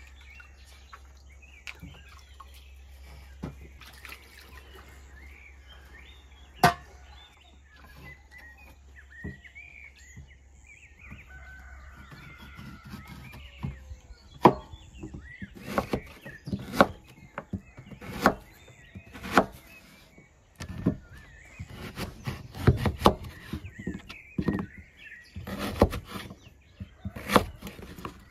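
A cleaver chopping through hard quinces onto a wooden cutting board: sharp, irregular knocks, a single one early and coming thick and fast through the second half. Chickens and small birds call faintly in the background.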